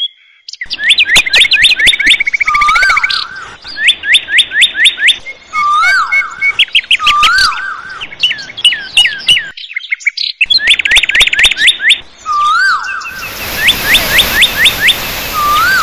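Birdsong: repeated phrases of quick, sharp down-slurred chirps alternating with a short rising-and-falling whistle, breaking off for about a second just after halfway. Near the end a steady rush of falling water comes in under the birds.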